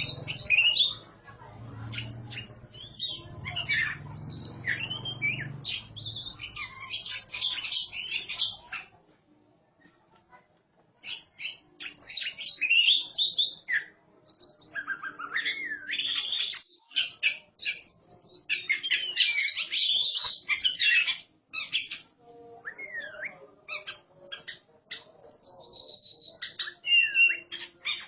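Oriental magpie-robins singing against each other: rapid, varied whistles, sweeping notes and harsh chatters, with a brief pause about a third of the way in.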